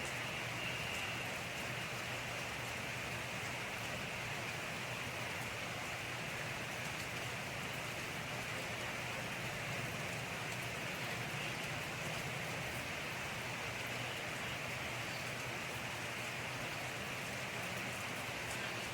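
Steady rain falling, an even hiss with faint patter of individual drops.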